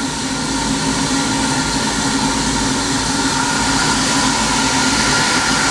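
Heritage train heard from aboard a coach: a steady rumble and hiss with a few steady tones, growing slightly louder.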